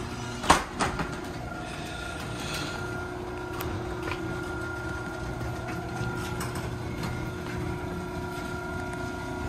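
Electric garage door opener opening the door: a steady motor hum with a whine and the rumble of the door travelling, with two sharp clunks about half a second in.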